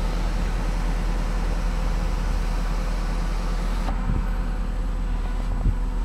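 Steady low hum of a stationary car heard inside its cabin, with a faint hiss that drops away about four seconds in.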